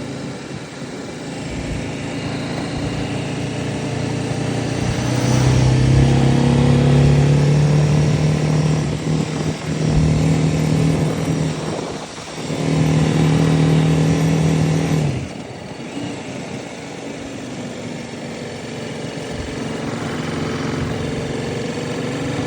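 BMW G 310 RR's single-cylinder engine running under way, its steady note growing louder about five seconds in, breaking briefly near twelve seconds and easing off about fifteen seconds in.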